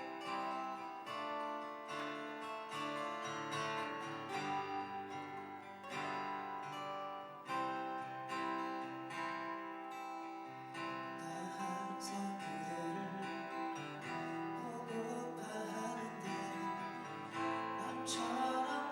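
Instrumental introduction of a live song played on plucked acoustic guitar, picked notes and strummed chords. About eleven seconds in, a wavering melody line joins over the guitar.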